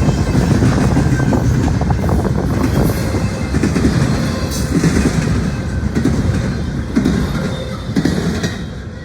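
Cars of a Norfolk Southern intermodal freight train rolling past: a steady low rumble with rapid wheel clicks and clanks over the rail joints, easing off near the end.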